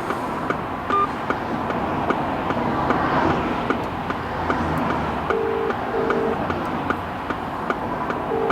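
A phone ringing out with the UK double ring tone, through the phone's speaker, starting about five seconds in. Under it, the steady running noise of the Range Rover P38's 4.0 V8, still running with a hole in its rocker cover, and a regular light ticking.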